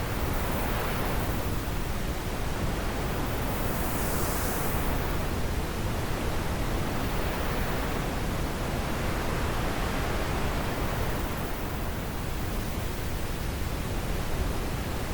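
Wind blowing steadily as an even rushing noise that swells and eases slowly, with a brief hissier gust about four seconds in.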